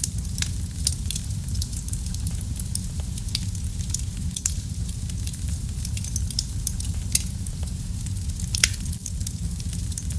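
Wood fire burning in a fireplace: a steady low rumble of flames with a constant scatter of small sharp crackles. Two louder pops stand out, about seven and eight and a half seconds in.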